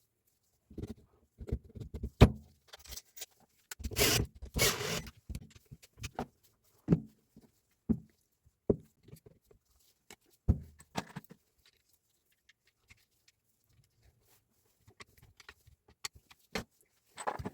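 Irregular knocks, clicks and short rattles of tools and hard parts being handled during a repair, with one sharp knock about two seconds in and a longer rattle around four to five seconds in. It goes quiet for a few seconds past the middle, then the clicks pick up again near the end.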